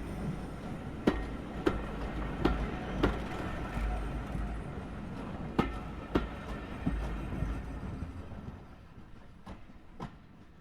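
Train rumbling past with irregular sharp clanks, fading away over the last few seconds.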